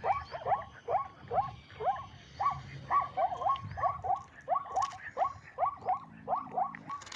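Zebra calling: a rapid series of short barking yelps, about three a second, each dropping in pitch.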